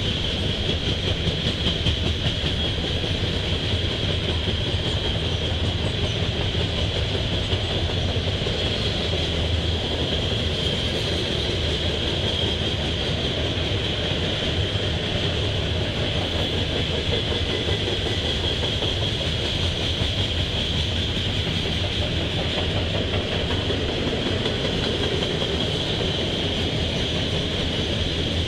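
Coal train's freight cars rolling past, the steel wheels running on the rails in a steady rumble and clatter, with a steady high hiss above it.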